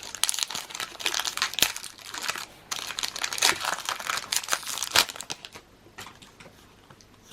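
Foil booster-pack wrapper of a Pokémon card pack crinkling as it is torn open by hand. It makes a run of sharp crackles that dies down about five and a half seconds in.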